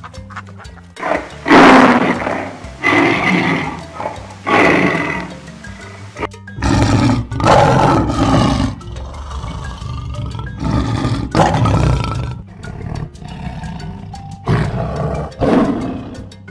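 A large wild animal roaring about six times, each roar a loud, rough call of roughly a second, over background music.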